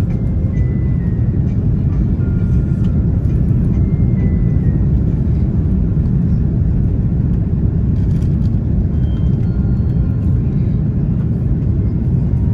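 Steady, deep cabin roar of an Airbus A330-300 airliner in flight on approach: engine and airflow noise heard from inside the cabin, with a few faint brief high tones above it.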